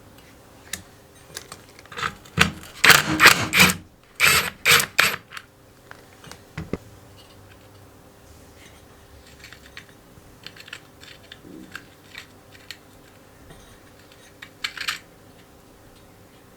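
Small metal parts and tools being handled and set down on a workbench: a dense run of clattering clicks and rattles from about two to five seconds in, then scattered light clicks and taps, with a short rattle near the end.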